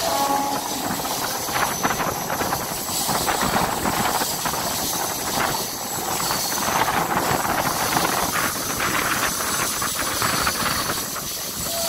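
MEMU passenger train running along the line, heard from an open carriage window: a steady rush of wind and wheels on the rails, with a faint high-pitched squeal.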